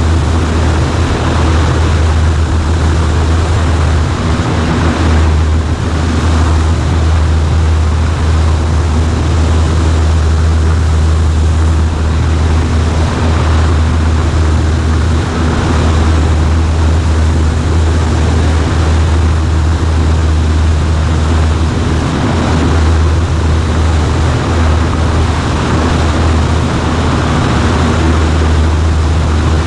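Cessna 140A's piston engine and propeller droning steadily at constant power, with a strong low hum and airflow noise.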